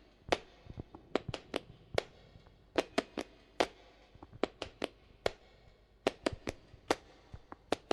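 A string of sharp, irregular clicks and taps, about two dozen of them with faint hiss between.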